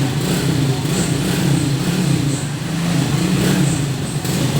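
Suzuki Raider J 115 Fi motorcycle's single-cylinder fuel-injected engine running steadily.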